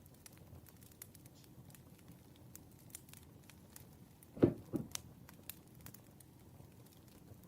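Campfire crackling: many small scattered snaps and pops over a low steady hiss of burning wood, with two louder pops close together about four and a half seconds in.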